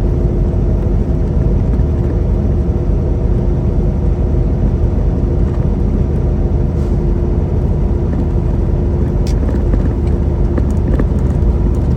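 Semi-truck cab noise while driving: the steady drone of the engine and road rumble, with a constant hum running through it and a few faint ticks near the end.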